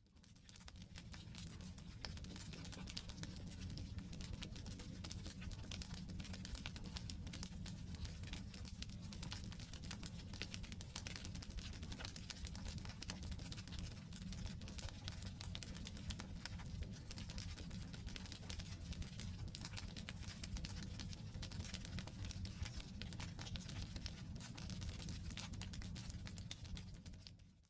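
Wood campfire burning: logs crackling and popping in a dense, constant patter of sharp clicks over a low rumble of the flames. The sound fades in during the first second and drops away right at the end.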